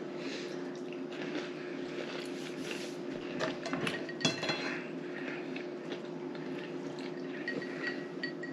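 Quiet eating sounds at a table: small clicks and clinks of dishes and cutlery, one brighter clink with a short ring about four seconds in, over a steady low hum.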